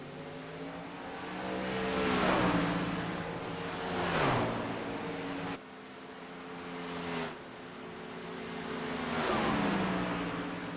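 Racing trucks passing one after another. Each engine note rises to a peak and then drops sharply in pitch as the truck goes by, three times. The sound cuts off abruptly just past halfway, then picks up again.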